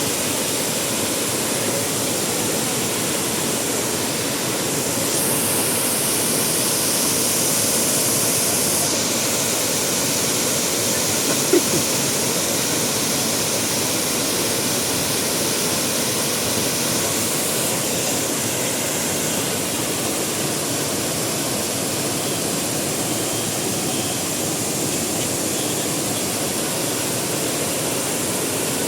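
Waterfall: a steady, even rush of falling water, with one brief tap partway through.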